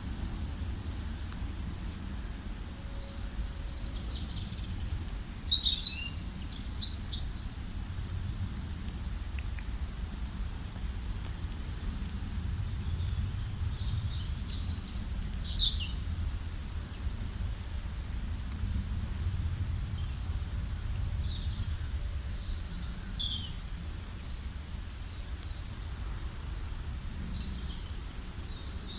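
Several birds singing and chirping, with short high sweeping notes and bursts of song a few times, over a steady low rumble.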